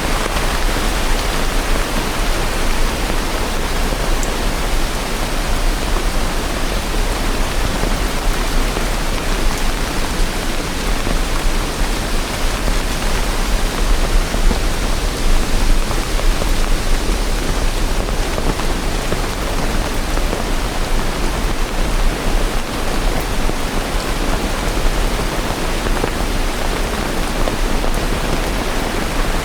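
Steady heavy rain: a dense, even hiss of rainfall with no distinct drops or thunder.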